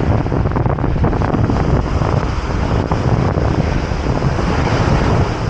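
Wind buffeting the microphone in gusty low rumbles over a steady wash of noise, with the beach surf beneath.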